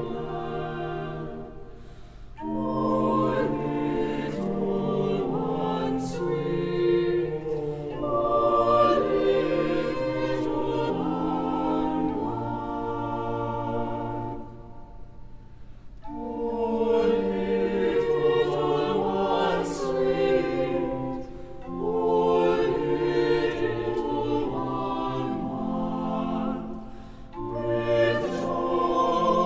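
A choir singing a classical piece in long sustained phrases, with short breaks between phrases about two seconds in, around the middle, and near the end.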